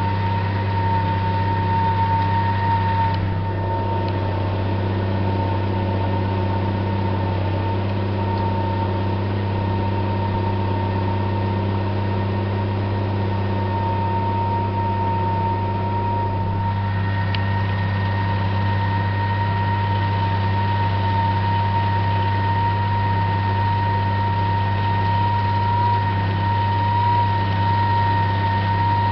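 Mercedes-Benz MB Trac 1500 tractor's six-cylinder turbo diesel running steadily under ploughing load, heard from on board. A deep steady drone carries a constant high whine throughout.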